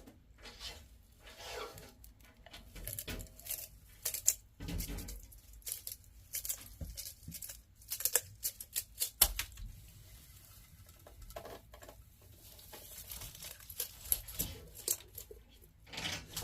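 Black-throated monitor lizard eating hard-boiled eggs: irregular wet clicks, crackles and jaw snaps of biting and chewing, in uneven clusters.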